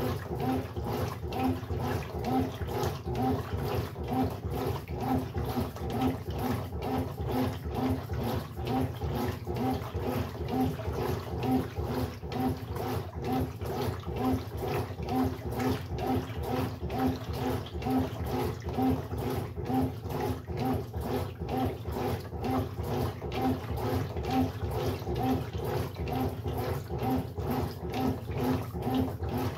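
Brastemp Sexto Sentido 8 kg washing machine running its wash, water churning in the drum with an even rhythm of about two pulses a second.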